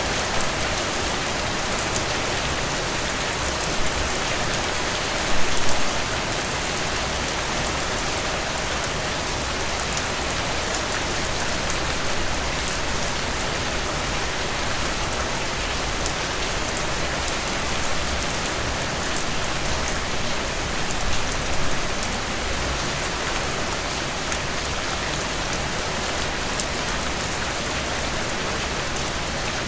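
Steady rainfall: an even hiss of rain with many small drop ticks scattered through it. It swells louder briefly about five seconds in and again around twenty-one seconds in.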